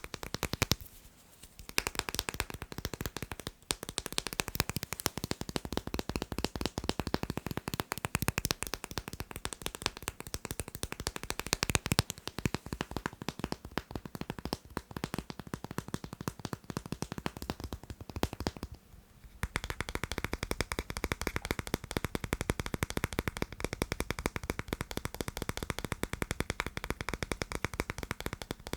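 Fast ASMR tapping on magnets: a dense, rapid stream of small sharp clicks, broken by two brief pauses, one just after the start and one about two-thirds of the way through.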